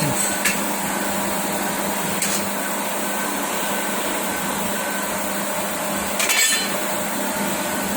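Steady hiss and hum of running cutting-shop machinery, with a few sharp metallic clicks and a short rattling clatter of handled steel pieces a little past six seconds in.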